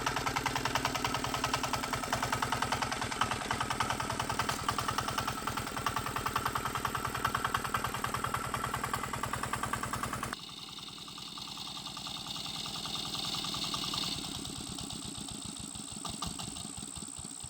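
Tractor engine, freshly rebuilt with new piston rings and connecting-rod bearings, running with a fast, steady beat. About ten seconds in, the sound drops suddenly to a quieter, lower engine beat.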